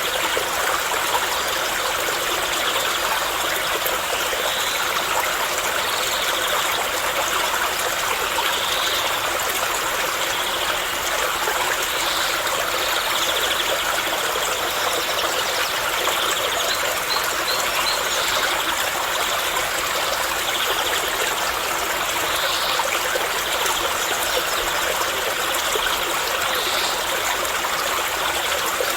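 Water flowing and trickling steadily, like a small stream, with short faint high chirps every few seconds.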